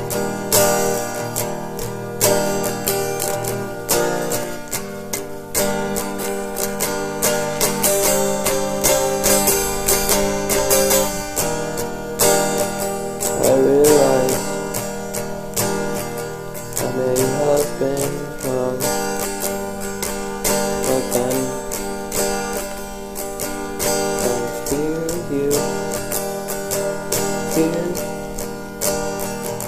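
Acoustic guitar strummed and picked in a steady rhythm, chords ringing: the instrumental opening of a song.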